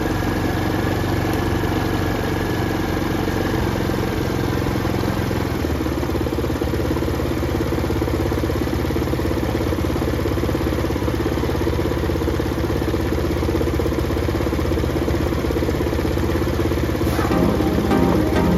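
Kymco Racing King 180 scooter engine idling steadily.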